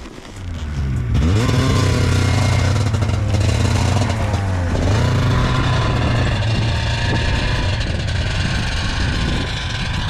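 Snowmobile engine revving up about a second in, then running at a steady pace, its pitch dipping and climbing again about halfway through.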